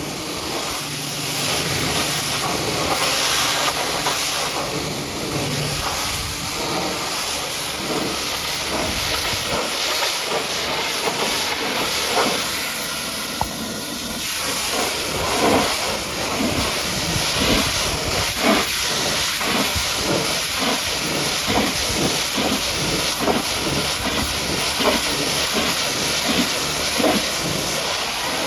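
Pressure washer's high-pressure water jet spraying mud off a truck: a steady hiss of spray, with a run of uneven spattering pulses through the second half.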